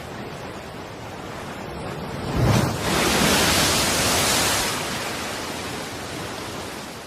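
Sea waves washing on a shore: a steady hiss of surf, with a wave breaking about two and a half seconds in, loudest for the next two seconds, then slowly washing back.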